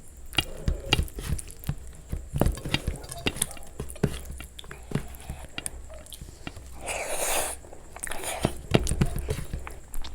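Close-miked eating: chewing and biting with many small wet mouth clicks, and one louder noisy burst lasting under a second about seven seconds in.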